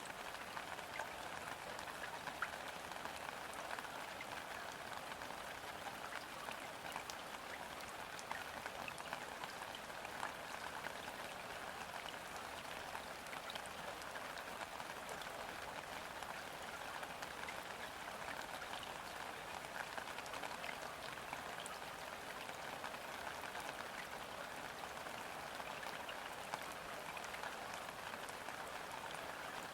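Steady gentle rain falling onto a river's surface, an even patter with scattered individual drops ticking, in still air.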